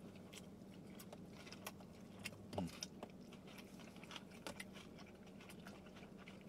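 Close-miked chewing of shrimp tacos: faint wet mouth clicks scattered irregularly.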